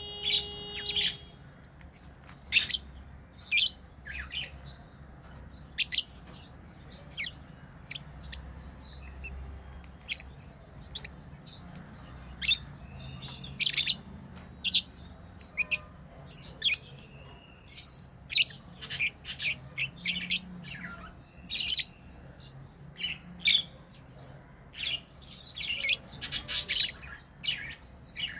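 Pet lovebirds chirping: many short, sharp, high-pitched chirps at an irregular pace, coming in quick clusters at times.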